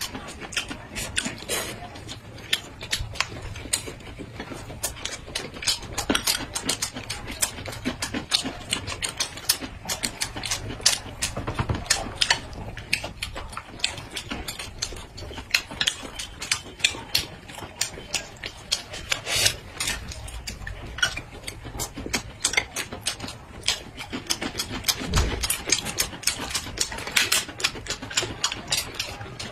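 Close-miked eating sounds: a dense, irregular run of crunchy chewing and wet mouth clicks as two people bite into and chew rolled pancake wraps.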